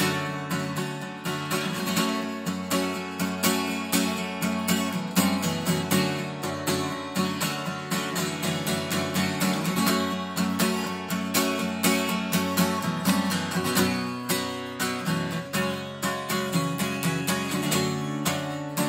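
Acoustic guitar strummed in a quick, even rhythm: an instrumental passage of a song with no singing.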